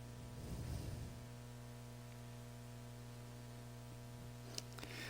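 Faint steady electrical mains hum, with a soft low rustle about half a second in and a small click near the end.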